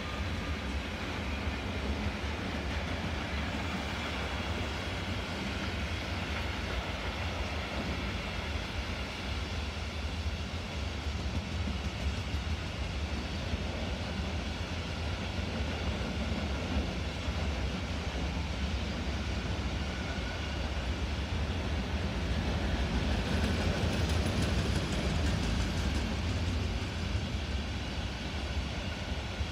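Freight coal train of bogie hopper wagons hauled by two Class 187 Traxx electric locomotives rolling past: a steady rumble of steel wheels on rail, with faint ringing tones above it. It grows a little louder about three-quarters of the way through.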